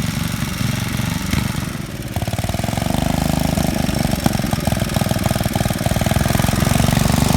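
Small garden-tractor engine on a homemade go-kart running steadily, growing louder about two seconds in as it comes up close.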